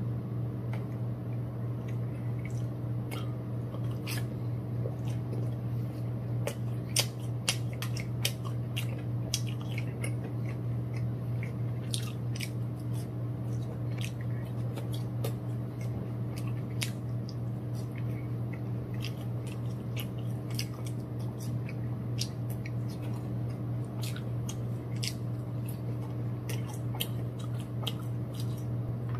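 Close-up eating sounds: a person chewing fried chicken nuggets and french fries, with many small wet mouth clicks and crunches, the sharpest of them about seven to nine seconds in. A steady low hum runs underneath.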